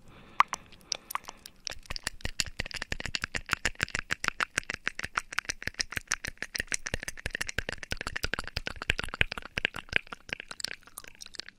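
Rapid, close-miked crackling clicks, about eight a second over a faint hiss, building after about a second and a half and stopping abruptly near the end: an ASMR trigger sound worked right at the microphone.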